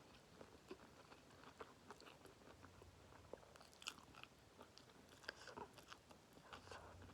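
Close-up chewing and biting while eating spicy instant noodles: faint, irregular wet mouth clicks and smacks, with a few louder crunchy bites.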